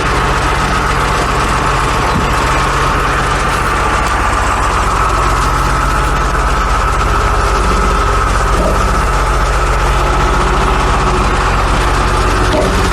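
A large engine running steadily at a constant speed, with a steady whine above it.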